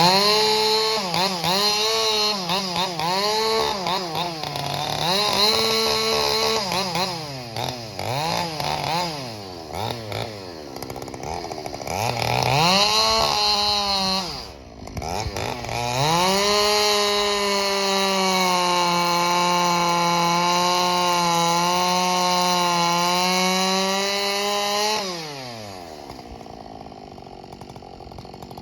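Ported Husqvarna 572 XP two-stroke chainsaw revving and cutting wood. Its pitch rises and falls repeatedly for the first dozen seconds, then holds high and steady for about nine seconds before dropping back near the end.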